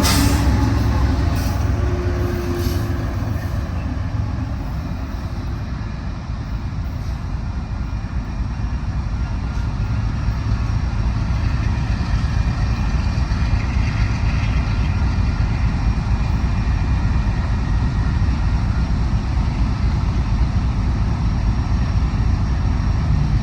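Diesel locomotives running light, a GE unit and an EMD SD70ACe, moving away; their low rumble fades over the first several seconds and then settles into a steady noisy rumble.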